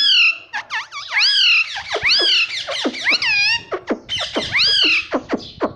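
Ringneck parrot calling: loud, shrill, repeated calls about once a second, each one rising then falling in pitch.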